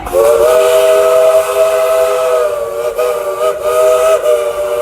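Steam locomotive whistle blown in one long blast of about five seconds, a chord of several steady tones that starts abruptly and holds with slight wavers.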